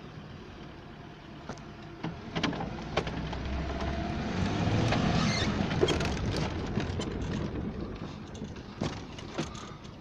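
Motor vehicle running, its sound building to a peak about halfway through and then fading, with scattered knocks and clicks.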